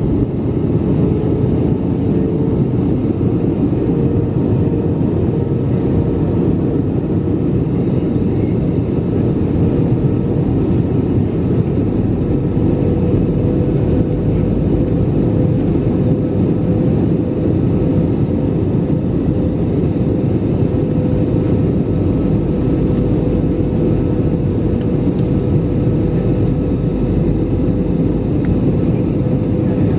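Steady cabin noise of an Airbus A319 in flight, heard from a window seat: an even rumble of engines and rushing air with a faint steady hum over it.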